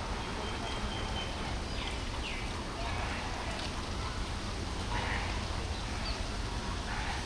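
Birds calling, several short calls a second or so apart, over a steady low rumble.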